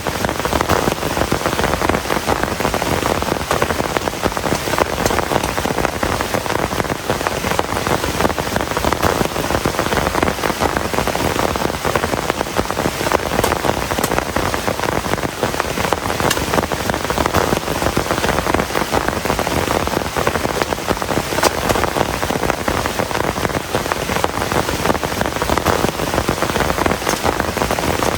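Heavy rain falling steadily, a dense even hiss of countless drops striking surfaces.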